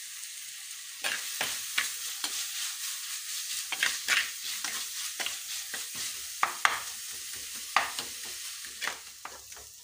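Chopped onion, shallots, ginger, garlic and green chillies sizzling in hot oil in an earthenware pot. From about a second in, a steel spoon stirs them, scraping and knocking against the clay pot several times a second.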